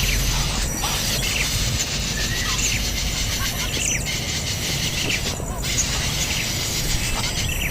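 Wild birds chirping, with short rising and falling calls scattered throughout over a steady outdoor hiss.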